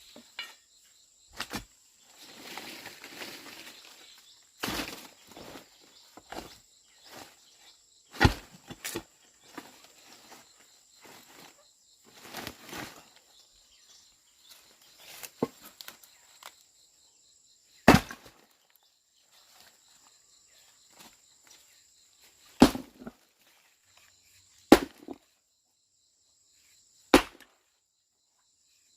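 Sharp, heavy blows struck a few seconds apart, irregularly, with some scuffling and rustling between them, over a steady high insect drone.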